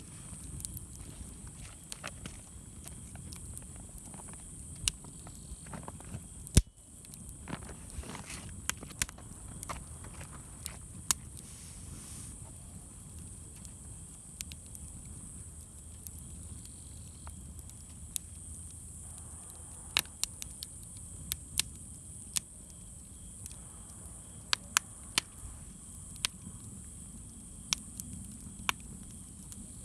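Wood campfire crackling, with irregular sharp pops and snaps over a low steady rumble; one much louder pop about six and a half seconds in.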